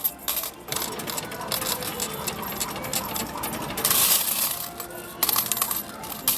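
Metal arcade medals clattering continuously inside a medal-pusher machine as they are fired in rapidly, with a louder surge of jingling about four seconds in, over busy arcade background noise.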